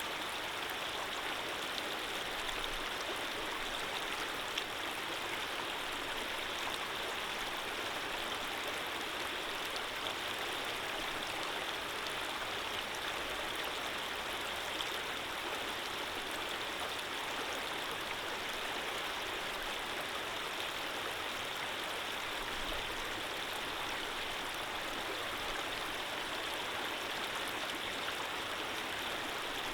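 Running water flowing steadily in an even, unbroken rush.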